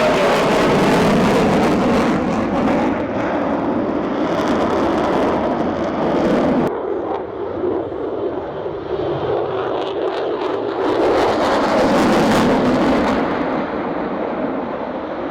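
Jet aircraft flying past at an airshow: a loud, steady rush of jet noise that swells twice, first up to an abrupt drop about two-thirds of the way through the first half, then again near the middle of the second half.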